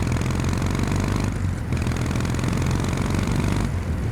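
Kawasaki W800's air-cooled parallel-twin engine pulling at low revs under throttle while riding, lugged in a low gear, with two brief dips in the higher engine sound, about a second and a half in and near the end.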